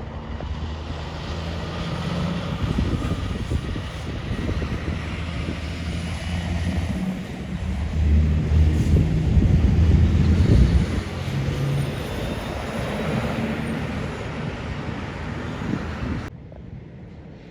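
Heavy truck driving past on a road: diesel engine and tyre noise building to its loudest about halfway through. It cuts off suddenly near the end, leaving quieter traffic noise.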